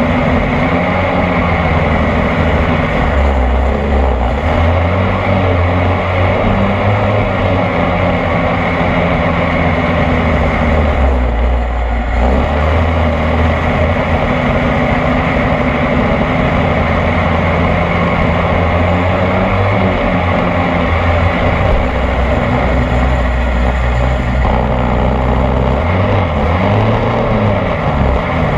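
26cc two-stroke petrol engine of a radio-controlled boat running hard and loud, its pitch stepping up and down with the throttle, easing off briefly about twelve seconds in and gliding up and down again near the end.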